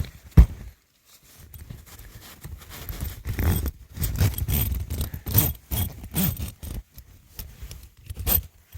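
Irregular scraping and rustling handling noises with short sharp clicks, stopping and starting in short bursts.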